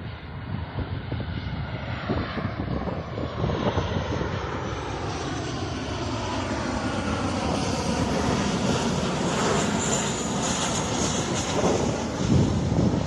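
Airplane on final approach flying past, its engine noise building steadily, with sliding pitch lines and a high whine loudest about ten seconds in.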